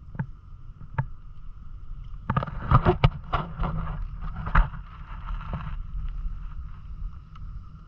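Sounds aboard a Hobie Island sailing kayak on the water: a steady low rumble with a constant hum, and a quick run of knocks between about two and six seconds in.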